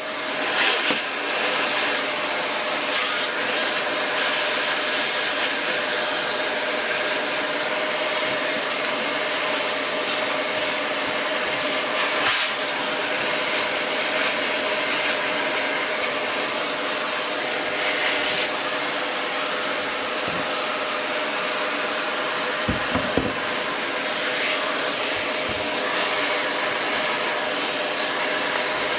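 Steady rush of air with a constant whine from an electric dust-cleaning tool, taking dust off amplifier parts. A few low thumps come late on.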